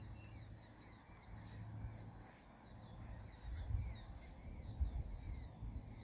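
Outdoor insect chorus: a steady high-pitched drone with rapidly repeating, wavering chirps underneath. Low rumbles of wind on the microphone come in about halfway through.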